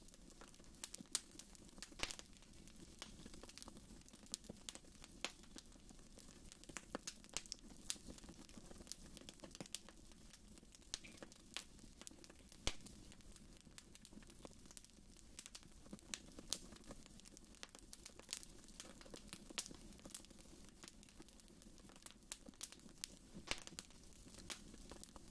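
Wood fire crackling in a fireplace: faint, irregular sharp snaps and pops over a steady low background.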